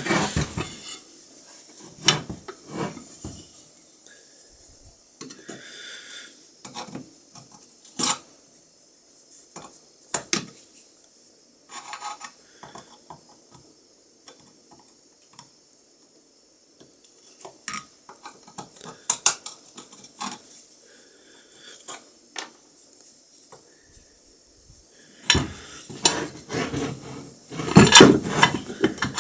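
Steel parts of an antique box iron and hand tools clinking and knocking as the iron is taken apart. The sharp metal clicks are separate and scattered, with brief scraping between them. A rapid flurry of clattering knocks comes near the end and is the loudest part.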